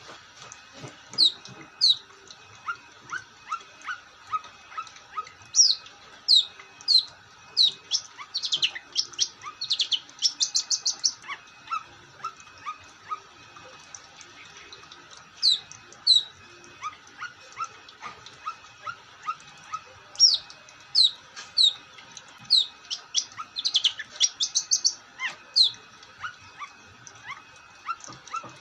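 Long-tailed shrike (cendet) singing continuously: sharp, short, downward-sweeping whistled notes in quick series, with two runs of rapid trilled notes.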